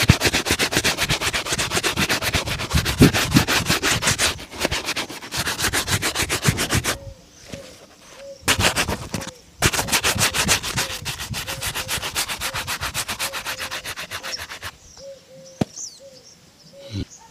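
Fast back-and-forth rubbing on a leather shoe during a shoe shine, at about ten strokes a second. It comes in three spells: a long one, a brief one around the middle, and another long one, stopping a couple of seconds before the end.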